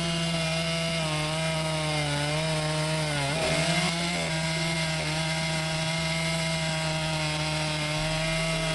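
Chainsaw running at high speed while sawing through wood, its engine note steady apart from a brief wobble in pitch about three seconds in.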